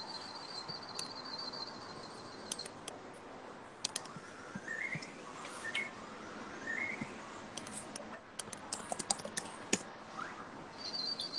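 Faint high chirps and a rapid trill, like small birds, over quiet room tone, with a cluster of light clicks near the end.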